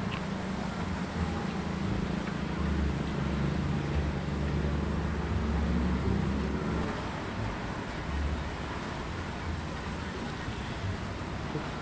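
Low rumble of a motor vehicle engine running close by over traffic noise, easing off about seven seconds in.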